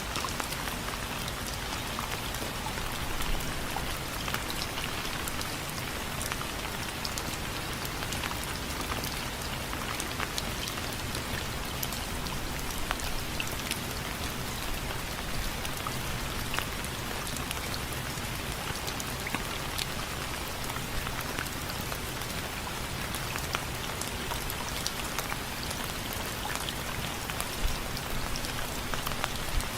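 Steady rain falling, with many individual drops ticking sharply on a hard surface such as a window frame.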